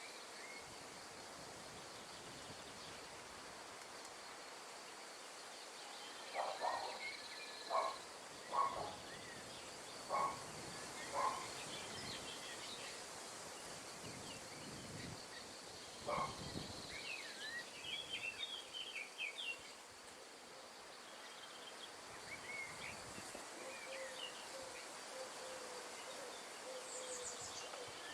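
Outdoor nature ambience: a steady hiss of wind in trees, with a faint high insect drone under it. Partway through come about five short animal calls a second or so apart, and later a burst of high bird chirping.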